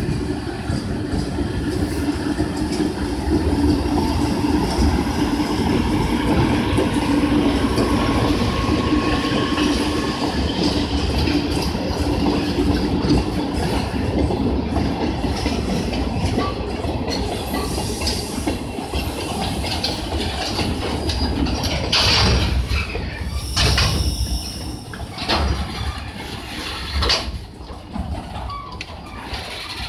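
Freight train of hopper wagons behind an electric locomotive rolling slowly through a station yard: a steady rumble of wheels on rail with a low hum through the first half, then several sharp knocks in the second half as the wagons pass.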